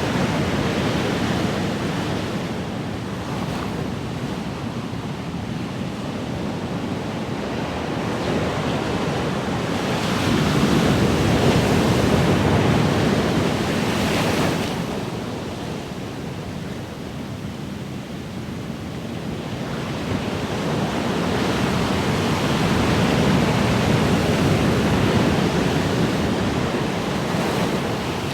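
Ocean surf washing onto a shore: a continuous rush of breaking water that swells and ebbs, loudest as waves break about ten seconds in and again near the end, and falling away abruptly at about fourteen seconds as a wave recedes.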